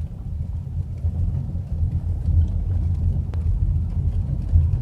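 Steady low rumble of a car driving, with faint scattered ticks above it.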